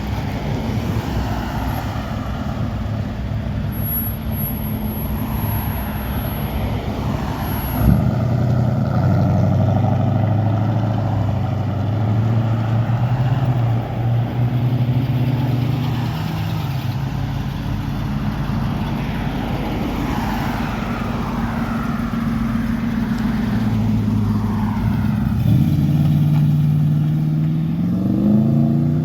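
Car engines running as cars drive off, with a sharp knock about eight seconds in, after which the engine note gets louder. One engine revs up near the end.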